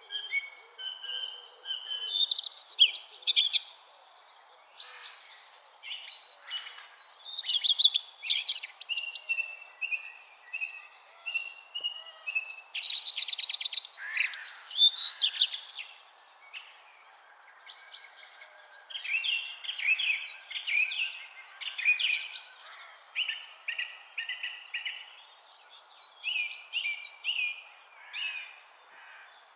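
Songbirds singing and calling, one phrase after another in bursts of chirps and trills, over a faint steady background hiss.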